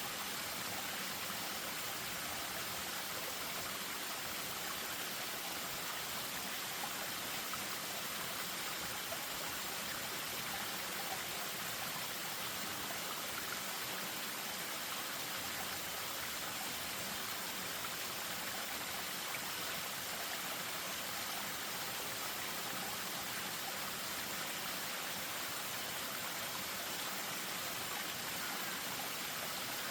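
Spring-fed stream splashing over a small waterfall: a steady, even rush of running water.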